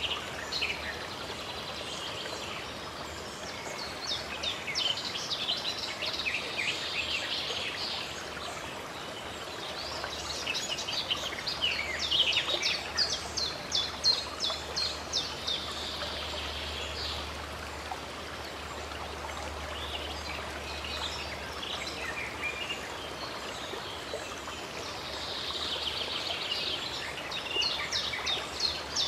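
Running stream water with birds singing over it, in spells of fast, repeated notes.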